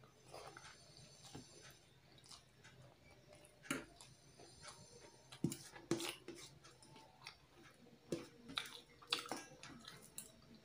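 A person chewing a mouthful of rice and fish curry eaten by hand, with scattered short wet smacks and clicks from the mouth, the loudest a little past halfway.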